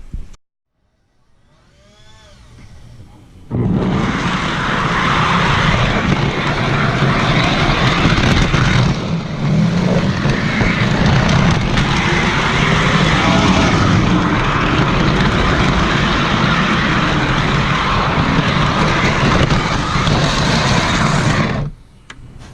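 Model train camera car running on the track, heard close up through the GoPro riding on it: a loud, steady rumbling roar of wheels on rails that starts suddenly a few seconds in and cuts off abruptly near the end.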